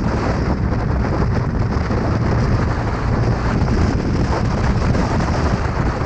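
Steady wind rumble buffeting the microphone, with the road and engine noise of a motorcycle riding at speed.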